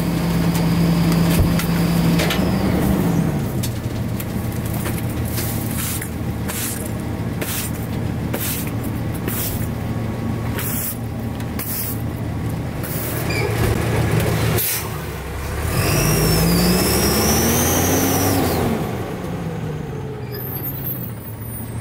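CNG-powered Autocar ACX garbage truck with a Heil Durapack 5000 rear-loader body, its engine running steadily and dropping in speed about three seconds in. Short sharp hisses come in a run through the middle. Near the end the engine speeds up and settles back, with a high whine rising and falling alongside.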